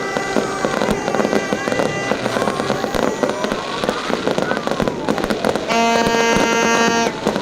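Fireworks going off in a dense run of cracks and pops, with whistling tones gliding up and down in pitch. About six seconds in, a horn sounds one steady note for just over a second.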